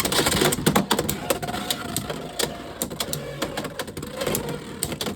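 Two Beyblade X spinning tops, Drawn Sword and Unicorn Sting, whirring as they spin in a plastic stadium and clicking and clattering against each other and the stadium wall over and over.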